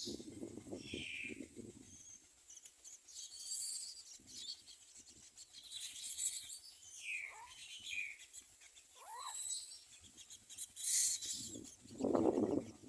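Common myna calls: several short, harsh, hissy high-pitched calls with a few quick whistled glides between them. A low rustling noise comes at the start and again near the end.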